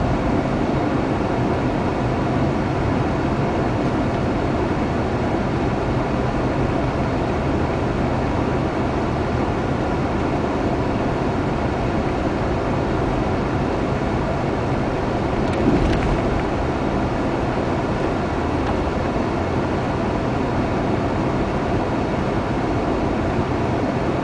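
A car driving: steady road and engine noise, with one short thump about two-thirds of the way through.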